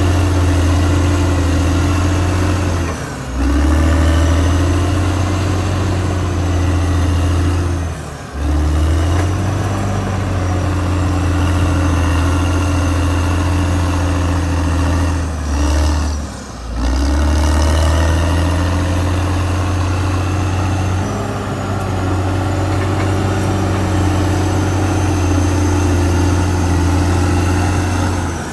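Caterpillar D6R XL bulldozer's diesel engine running steadily with a deep, even hum, broken by brief drops in level about 3, 8 and 16 seconds in.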